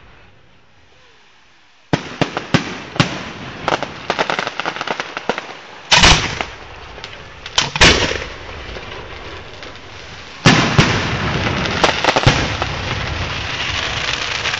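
Fireworks going off: after a short lull, a run of sharp cracks and pops begins about two seconds in, with loud bangs around six and eight seconds, then a dense, continuous crackling barrage from about ten seconds on.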